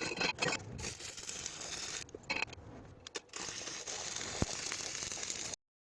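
Wood pellets burning in a converted wood stove: a steady hiss with scattered crackles, which cuts off abruptly about five and a half seconds in.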